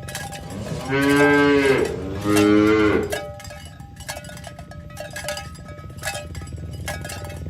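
A cow mooing twice in close succession, two long calls starting a little under a second in. Repeated short ringing clinks run throughout.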